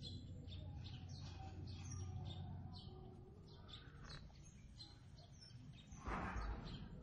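Small birds chirping: short, high, falling chirps, several a second, over a low steady hum. A brief rustling noise about six seconds in.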